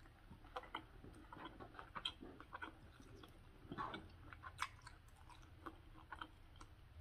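Person chewing a mouthful of fries, close to the microphone: faint, irregular wet mouth clicks and smacks.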